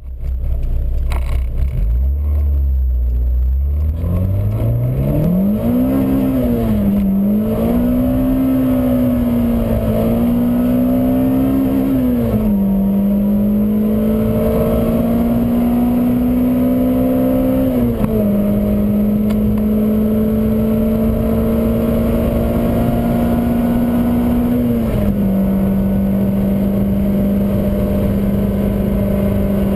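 Peugeot 106 GTi 1.6-litre 16-valve four-cylinder engine, fitted with Piper 285 cams and a remapped ECU, heard from inside the cabin under hard acceleration at high revs. It starts as a low hum, rises steeply about four seconds in and swings up and down a few times. It then climbs slowly, dropping sharply three times as the close-ratio gearbox is shifted up.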